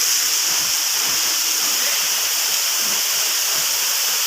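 Rushing roar of a nearby waterfall, a steady, loud hiss of falling water.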